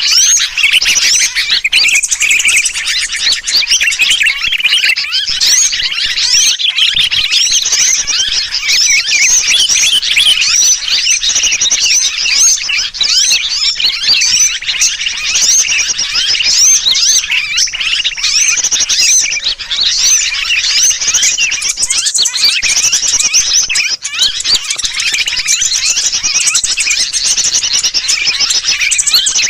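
Bird-trapping lure recording: a dense, continuous chorus of many small birds chirping rapidly and noisily, mixed with the agitated calls of a trapped sooty-headed bulbul (kutilang). The lure uses these calls to draw in birds.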